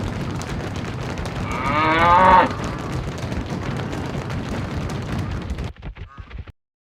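Cattle stampeding: a dense rumble of many hooves, with one loud moo falling in pitch about two seconds in. The rumble breaks off near the end into a few scattered thuds.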